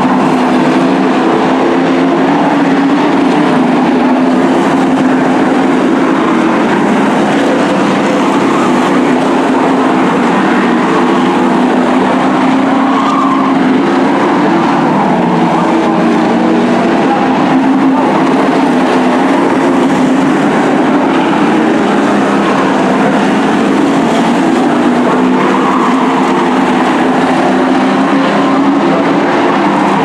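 Short-track race trucks running laps in a pack, their engines making a loud, steady drone that never lets up.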